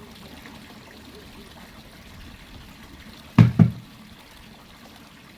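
A steady low rustling noise with two heavy, dull thumps in quick succession about three and a half seconds in.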